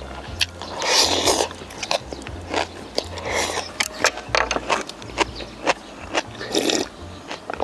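Close-miked chewing and biting of food: wet, crunchy clicks, with three louder bites or mouthfuls about a second in, around three seconds and near the end.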